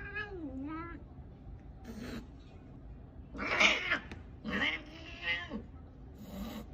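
A cat yowling: a run of drawn-out calls with wavering pitch, the loudest about three and a half seconds in.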